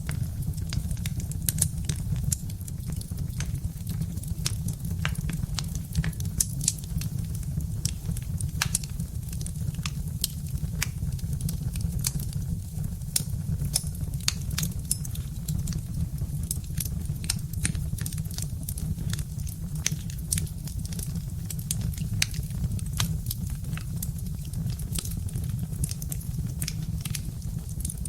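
Birch-wood fire crackling, with frequent irregular sharp pops and snaps over a steady low rumble.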